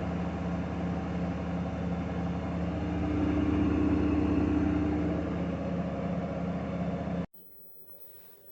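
Gorenje WPAM74SA1T washing machine spinning at about 1200 rpm: a steady motor and drum hum with a tone that swells briefly in the middle, vibrating but within limits. It cuts off suddenly near the end.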